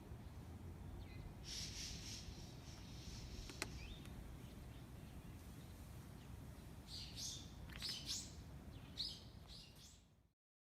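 Small birds chirping outside, heard in two clusters of short, high chirps over a low steady background, with one sharp click a few seconds in. The sound cuts off just before the end.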